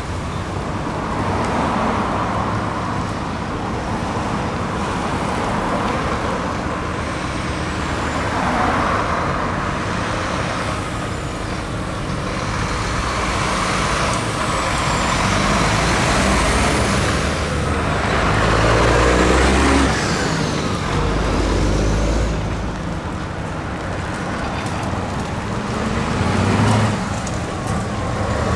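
Heavy trucks in a convoy on the road: engine and tyre noise that swells and fades, with a deep rumble about twenty seconds in.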